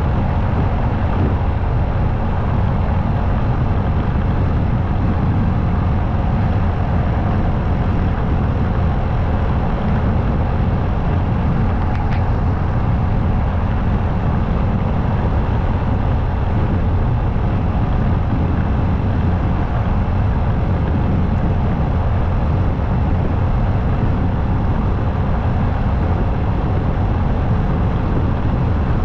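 Motorcycle riding at highway speed: steady engine, tyre and wind noise that holds even and deep throughout.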